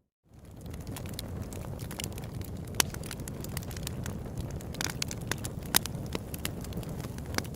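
Open-air wood campfire crackling, with frequent sharp pops and snaps over a low steady rumble. The sound drops out for a moment at the start, then fades back in.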